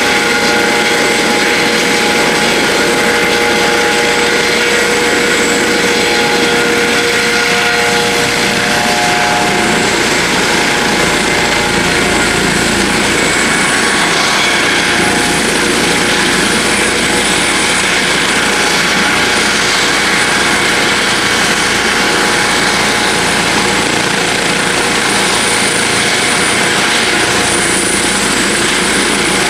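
Twin-turbine helicopter running steadily: dense rotor and engine noise with a thin high whine. A steadier mid-pitched tone in the mix drops out about eight seconds in.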